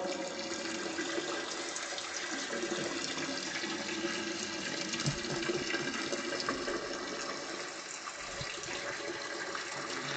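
Water running steadily in a bathroom, with a few faint knocks about halfway through.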